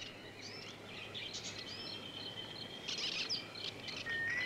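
Jungle birds calling: scattered short chirps and whistles over a steady thin high tone, with one rising whistle near the end.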